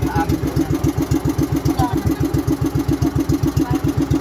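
Engine running steadily with an even chugging beat, about ten beats a second, with faint voices in the background.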